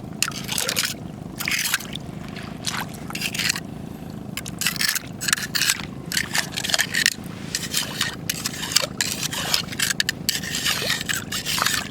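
Irregular scraping and crunching of stones and shells as someone searches among rocks on the shore.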